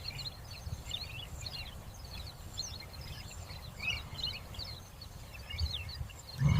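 Small birds chirping and twittering in quick short calls over a low steady rumble of outdoor ambience.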